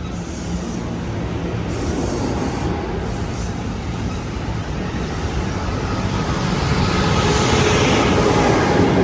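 Amtrak Capitol Corridor passenger train with a Siemens Charger diesel locomotive rolling past the platform, a steady rumble that grows louder toward the end, with faint high wheel squeal.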